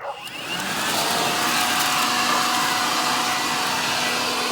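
Leaf blower spinning up over about a second, then running steadily and really loud, a rushing blast of air with a steady whine.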